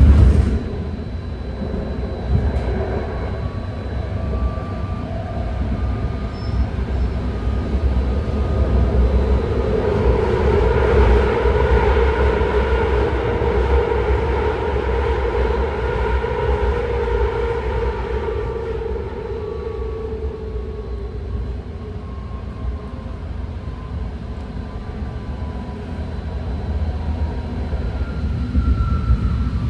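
BART train running at speed, heard from inside the car: a steady rumble of wheels on the rails with a whine that swells about a third of the way in and fades again after the middle.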